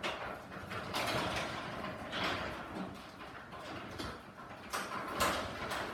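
Sectional garage door moving by hand along its tracks with the opener disengaged: an uneven rolling rattle of rollers and panels, with several clattering knocks near the end.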